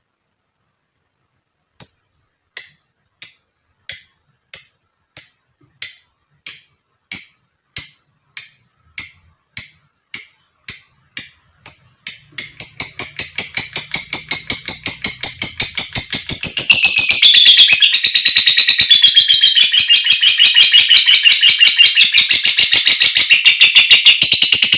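Female lovebird calling: sharp high single chirps ('ngetik') about one and a half a second, breaking after about ten seconds into a long, very fast unbroken chatter ('ngekek'), which dips slightly in pitch part way through.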